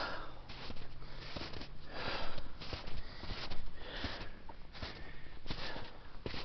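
A hiker breathing hard, one heavy breath after another, from climbing a steep snow-covered slope. Footsteps crunch in crusty snow.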